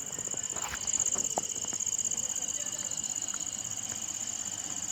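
Insects trilling steadily at a high pitch, a fast even pulsing, with a few light clicks about a second in.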